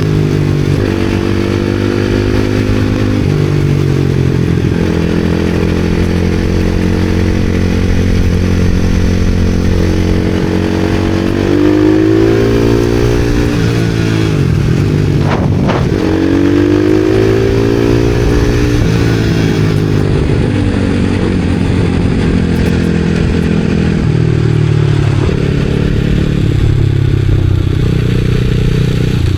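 Supermoto motorcycle engine running under way, its revs rising and falling in steps with throttle and gear changes. A brief sharp clatter comes about halfway through.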